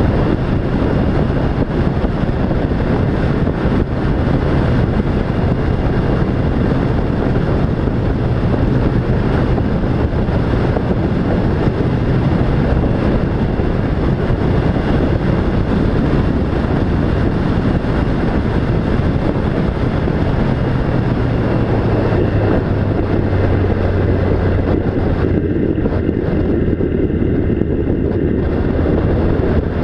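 An engine running steadily under loud rushing wind and travel noise, its low note dropping slightly about 21 seconds in.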